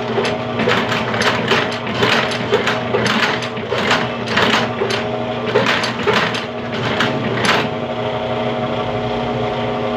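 Sewing machine stitching through a shoe's upper: a steady motor hum with a run of sharp, irregular needle strokes, a few a second, which stop about eight seconds in while the hum carries on.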